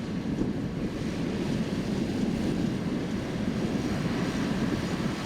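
Steady low rumble of a tractor running.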